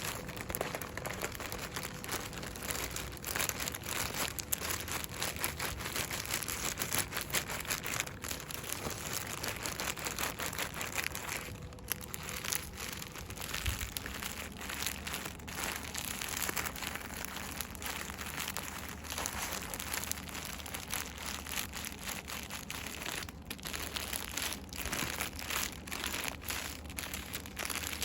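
Fast, continuous rustling and crinkling of product packaging handled by hand, with brief pauses about twelve and twenty-three seconds in.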